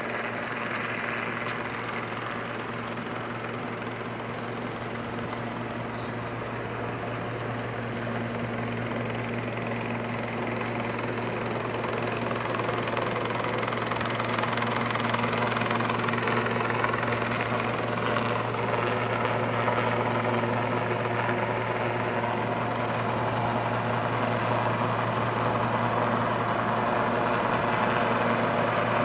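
Helicopter flying overhead: a steady drone of rotor and turbine, growing gradually louder.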